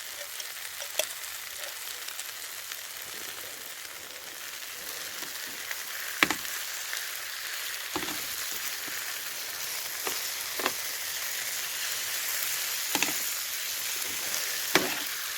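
Chicken tikka masala paste frying and sizzling, the hiss slowly growing louder, with a handful of sharp clicks or taps spread through it.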